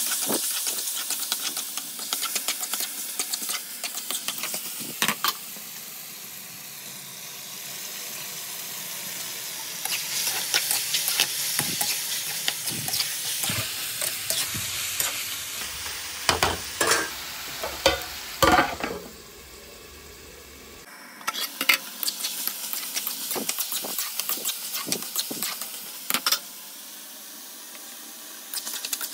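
Chicken in masala gravy sizzling in a pan while a spoon stirs and scrapes through it, with frequent clicks of the spoon against the pan and a few louder knocks past the halfway point.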